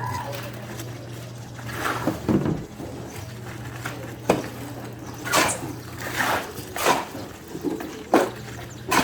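Irregular sharp knocks and short scrapes, about one a second, over a steady low hum.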